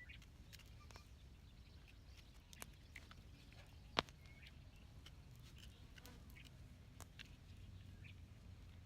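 Near silence with scattered faint ticks and one sharp click about four seconds in.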